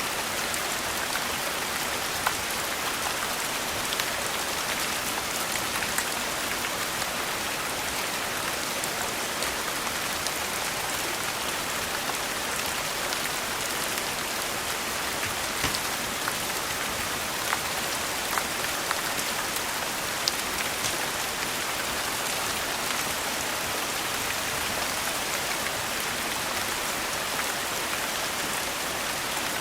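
Steady rain falling on a surface, with scattered sharp drop ticks.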